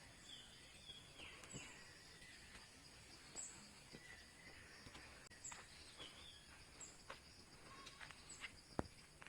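Faint outdoor ambience with distant bird chirps: short falling calls and a high chirp repeating about every second and a half. A single sharp click comes near the end.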